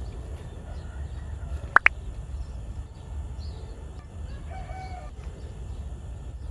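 A chicken calls briefly about four and a half seconds in, over a steady low rumble. Two sharp clicks just before two seconds in are the loudest sounds.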